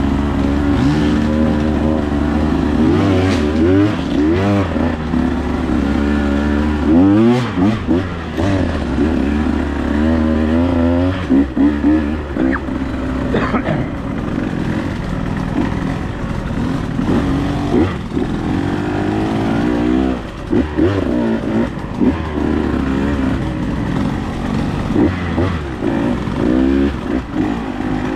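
Dirt bike engine running and revving up and down repeatedly, the pitch rising and falling with the throttle as the bike is ridden over the trail.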